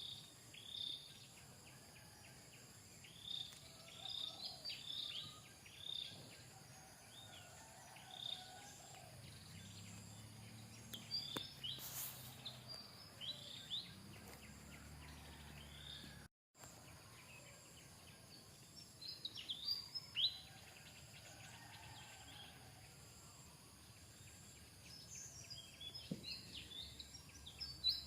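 Short, high-pitched chirping calls, repeated in clusters over faint background noise, with a brief dropout about halfway through.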